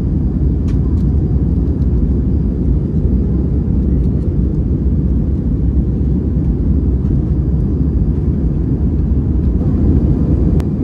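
Airbus A320 in flight heard from inside the passenger cabin: a steady, loud, low rumble of engines and airflow.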